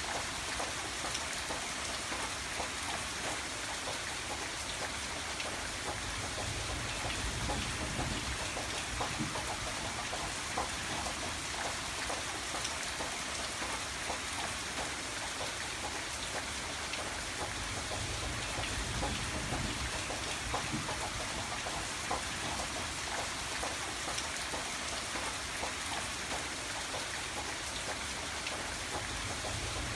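Steady rain falling: a dense, even patter of drops with many small scattered ticks.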